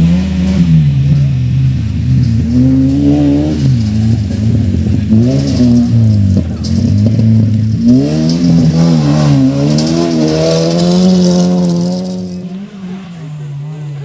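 Off-road race car engines revving hard, their pitch repeatedly climbing and falling as the cars accelerate and ease off, over a steady low engine hum; the revving fades down near the end.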